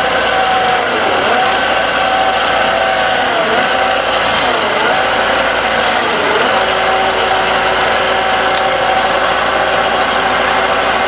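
Wood lathe running, its steady motor whine dipping briefly in pitch about four times.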